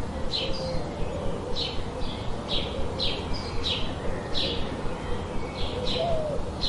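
Birdsong: a bird repeats short, sharp chirps about twice a second, with faint low warbling notes underneath.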